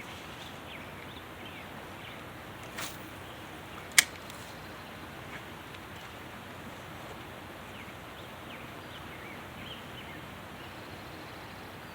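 A fishing rod swishes through a cast, and about a second later there is a single sharp click, over the steady hiss of a creek with scattered faint bird chirps.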